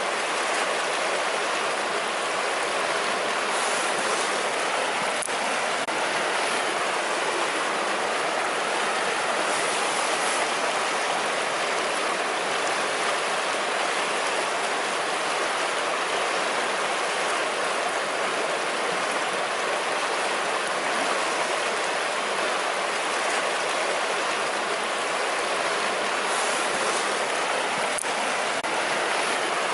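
River water rushing over stones, a steady even rush without let-up.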